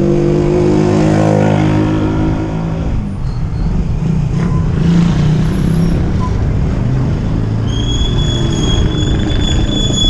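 Road riding noise: wind buffeting the microphone and a motor vehicle's engine passing, its pitch falling slightly over the first few seconds. From about eight seconds in a steady, high-pitched squeal sets in and holds.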